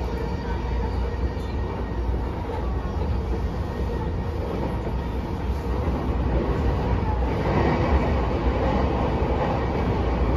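Interior running noise of a JR East E233-8000 series electric train: a steady low rumble of wheels on the rails, growing somewhat louder about six seconds in.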